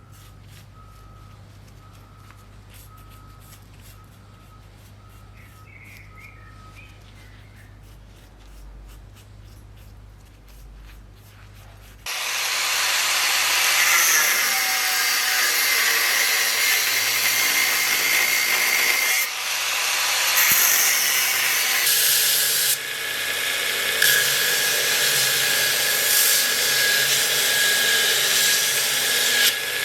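A faint low hum, then about twelve seconds in a loud electric grinder starts abruptly and runs steadily on steel, with a high whine and brief dips in load.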